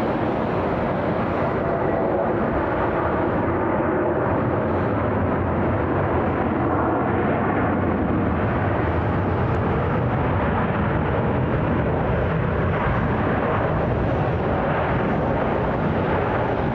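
Steady jet engine noise from an arriving Airbus A330-900 airliner's Rolls-Royce Trent 7000 engines, holding an even level throughout.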